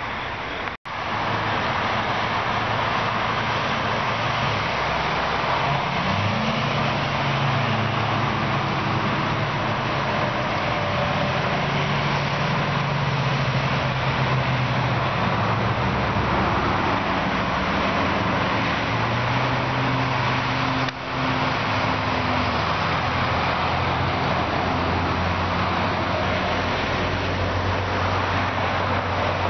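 Steady, continuous road traffic: cars and trucks passing on a busy road in morning rush hour, with the low hum of their engines changing as vehicles come and go. The sound briefly drops out about a second in.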